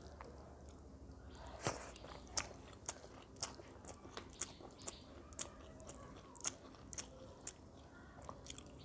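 A person chewing a mouthful of food close to the microphone, with sharp wet mouth clicks about twice a second.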